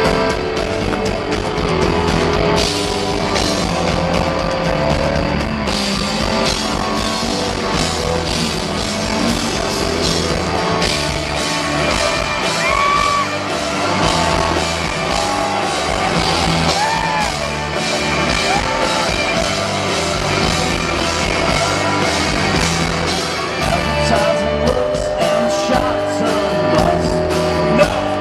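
Live rock band playing loudly, with electric guitars, drum kit and sung vocals, recorded from the audience.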